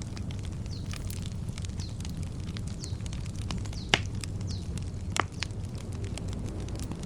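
Wood campfire crackling steadily, with sharp pops, the loudest about four seconds in and another just after five seconds. Faint short falling bird chirps repeat in the background.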